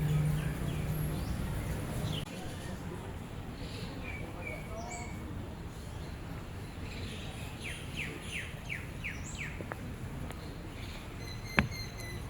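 Birds chirping and calling over outdoor ambience, including a quick run of about six short falling notes past the middle. A low steady hum fills the first two seconds and then cuts off, and a single sharp click comes near the end.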